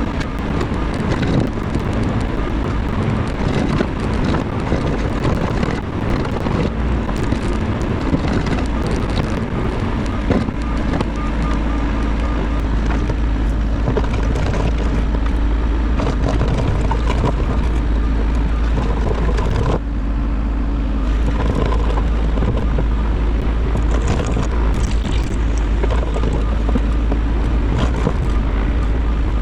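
Diesel engine of a Bobcat E50 compact excavator running steadily, with a few brief knocks.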